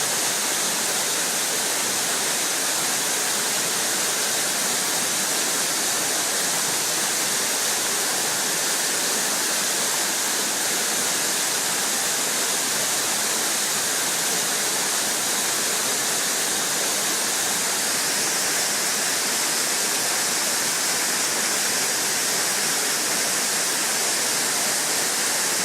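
Waterfall: a steady, unbroken rush of falling water with a strong hiss.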